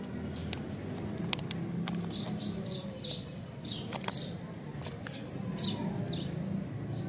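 Several short, falling chirps of a small bird, with crinkles and ticks from a paper lollipop wrapper and tattoo sticker card being handled. A steady low hum runs underneath.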